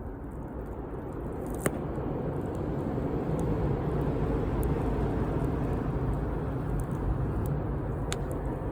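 Campfire burning with a steady low rush of flame, and sharp wood crackles: one loud pop about a second and a half in, another near the end, and a few faint ticks between.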